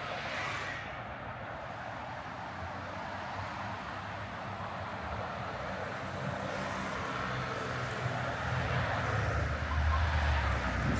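City street traffic: a steady hum of passing cars, with a heavy vehicle's low engine rumble growing louder in the second half.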